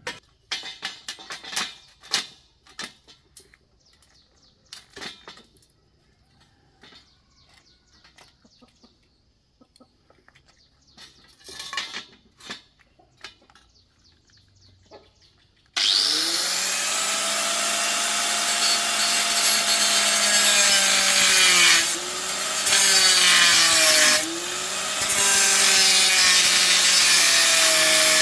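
Scattered clicks and knocks of tools being handled, then about halfway through a handheld power tool starts and runs at high speed. Its pitch dips briefly twice, as if the tool is pressed into work.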